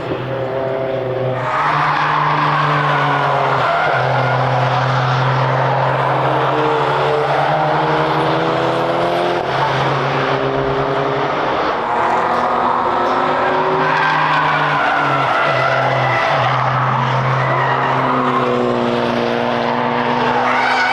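Cars driving hard past on a race track, their engines revving up and down, with tyre squeal that rises sharply about a second and a half in.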